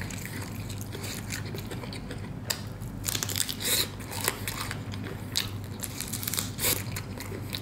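Close-up biting and chewing of a fried chicken drumstick: irregular crunches and mouth clicks, over a steady low hum.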